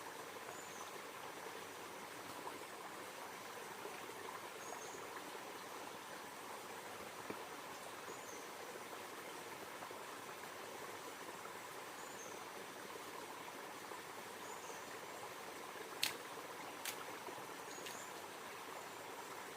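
Steady rush of flowing river water, with a short high chirp repeating every couple of seconds. Two sharp clicks come near the end.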